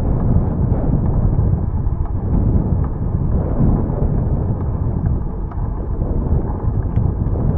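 Wind buffeting the microphone of a camera on a moving bicycle: a steady, loud, low rumble, with a few faint ticks over it.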